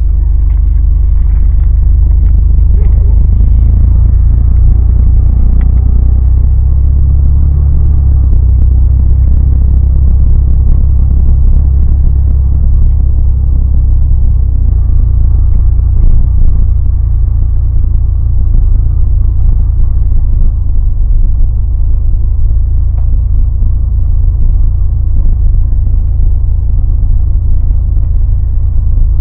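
1990 Ford F-150 pickup being driven: a loud, steady low engine and road rumble that shifts in pitch a couple of times.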